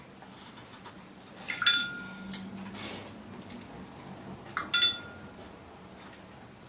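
A paintbrush clinking against its water jar, two short ringing clinks about three seconds apart, with a little swishing between them as the brush is worked in the water.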